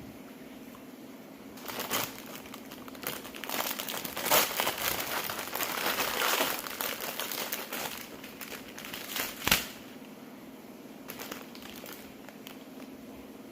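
Plastic packaging crinkling and crumpling as it is handled, in irregular bursts with a few sharper clicks, from about two seconds in until near ten seconds. A faint steady hum sits underneath.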